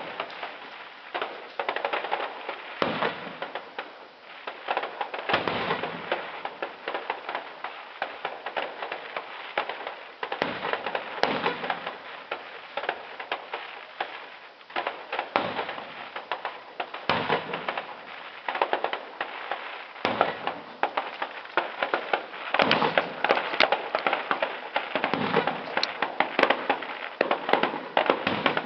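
Fireworks display: a steady barrage of crackling bursts, with heavier shell bursts every few seconds.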